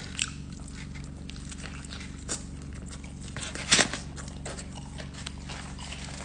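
Close-miked chewing and wet mouth sounds from eating a hot chicken slider, with one sharper click a little under four seconds in, over a steady low hum.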